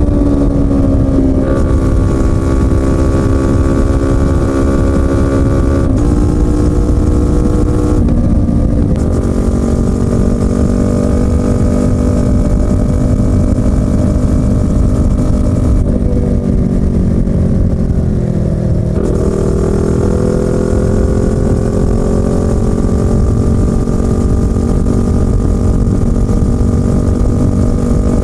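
Yamaha YZF-R25 parallel-twin engine and exhaust running under way, the engine note holding fairly steady with a few small jumps in pitch. A little past the middle the pitch sinks slowly for a few seconds, then steps back up.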